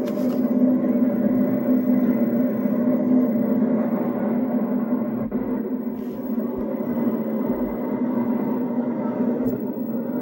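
Steady running rumble and hum of a SkyTrain car in motion, heard from on board.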